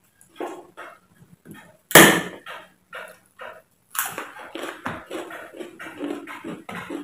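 Close-miked eating sounds: chewing with crunches of a crisp fried cracker. A loud, sharp crunch comes about two seconds in and another about four seconds in, followed by a run of small irregular chewing crunches.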